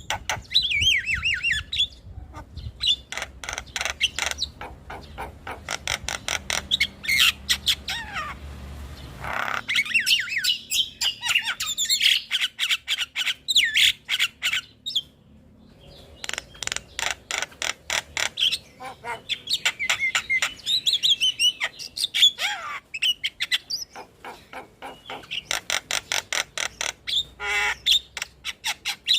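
Javan mynas (jalak kebo) calling: rapid strings of short harsh chattering notes mixed with falling whistled phrases, broken by a short pause about halfway through.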